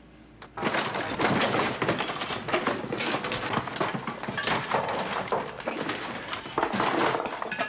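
Werewolf growling and snarling in a series of loud, rough bursts.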